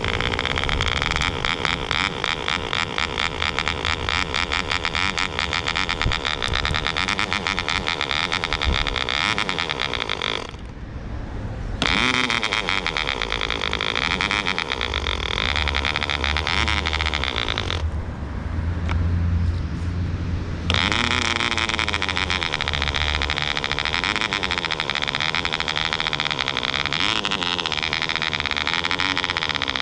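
Soviet MK-12V model aircraft compression-ignition (diesel) engine, running on ether-kerosene-castor fuel, running fast and loud with a rapid, even firing buzz. Twice its high-pitched part drops away for a second or two before coming back.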